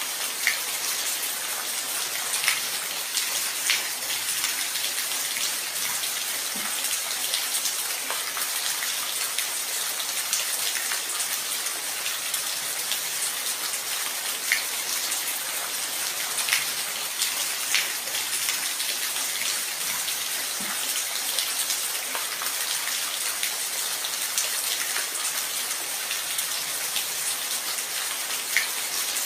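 Steady rain falling, a constant high hiss with individual drops ticking on a surface every second or so.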